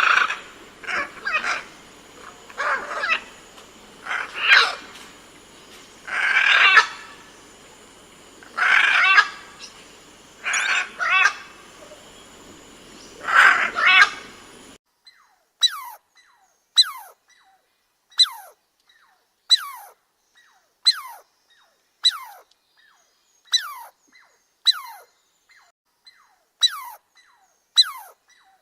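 Animal calls in two clips. First comes a series of loud, irregular calls over a background hiss, then, about halfway through, a cut to a clean, steady run of short calls that each sweep sharply down in pitch, about one a second.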